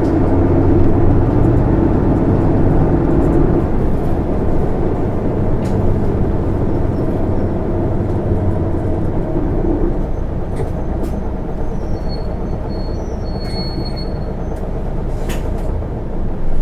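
Interior running sound of an Isuzu Erga PKG-LV234N2 city bus under way: steady diesel engine and road noise that gradually eases off. A faint high-pitched squeal comes in briefly about twelve seconds in.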